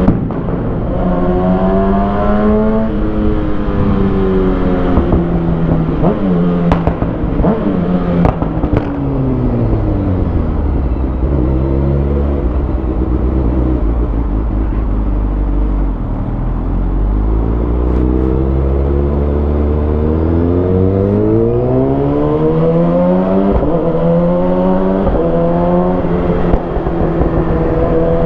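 2020 Kawasaki Ninja ZX-6R's 636 cc inline-four through a Lextek SP7C carbon exhaust with decat headers. It revs briefly, then its pitch falls for about thirteen seconds as the bike slows, and it climbs steadily again as the bike accelerates, over a steady rush of wind noise.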